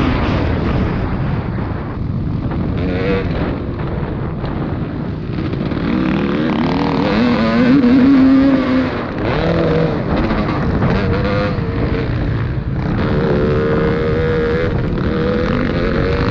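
Motocross bikes racing on a dirt track, their engines revving up and falling back again and again as they pass, with more than one bike heard at a time.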